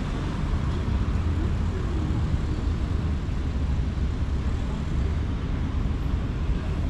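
Steady low engine rumble under a continuous haze of city noise.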